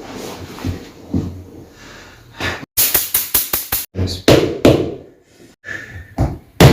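A quick run of about six sharp knocks, roughly five or six a second, followed by a few scattered louder thumps.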